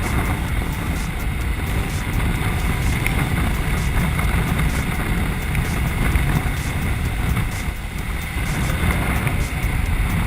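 Ducati Multistrada motorcycle running steadily while being ridden, its engine mixed with wind rush on a helmet or bike-mounted camera.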